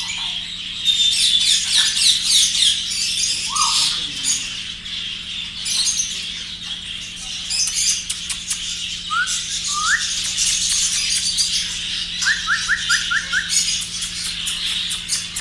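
Many caged parrots and small birds chattering together in a dense, high chirping, with two rising whistles about nine seconds in and a quick run of five rising whistled notes a little later.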